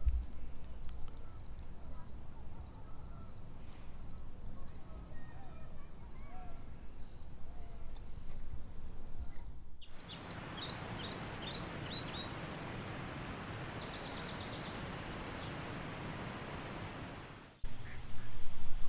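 Low wind rumble on the microphone with a few faint bird calls, then, about halfway in, a steady rush of water pouring over the dam with small birds chirping above it; the rush cuts off abruptly near the end.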